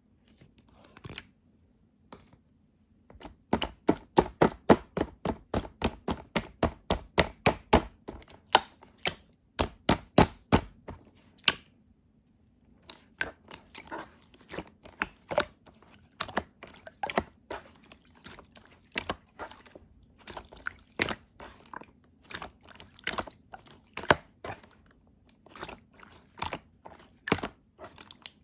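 Close-up crunchy, crackling clicks in quick runs of about four to five a second, loudest for the first several seconds, pausing briefly, then going on a little softer.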